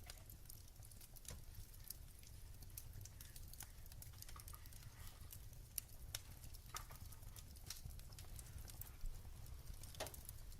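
Wood fire crackling softly in a fireplace, with scattered sharp pops over a low steady rumble and a quick cluster of crackles near the end.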